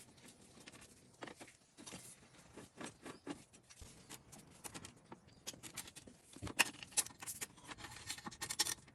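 Faint, scattered clicks, taps and scrapes of hand tools and metal parts being handled while a motorcycle's rear brake is taken apart, busier from about six seconds in.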